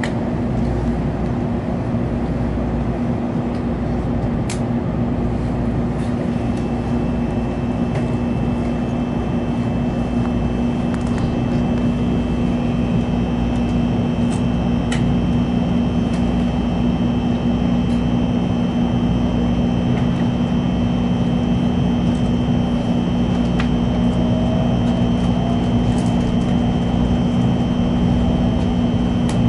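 Steady running noise inside an N700-series Shinkansen car: a constant low hum with a thin high tone, a few scattered ticks, and a faint whine rising slowly near the end.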